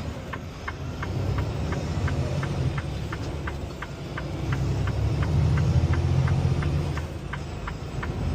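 Semi-truck engine and road noise heard from inside the cab while driving, swelling about five seconds in. Over it runs a regular ticking, about three ticks a second.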